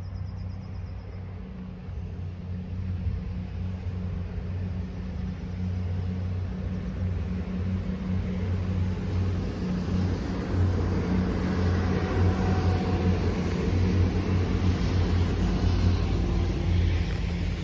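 A non-stopping train running through the station at speed, a low rumbling hum that grows steadily louder as it approaches and passes.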